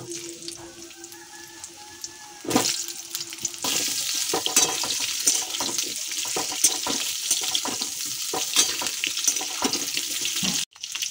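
Cubed potatoes sizzling in hot mustard oil in a kadai. From about three and a half seconds in, a metal spatula scrapes and clicks against the pan as they are stirred, and the sizzle gets louder. The sound cuts out for a moment near the end.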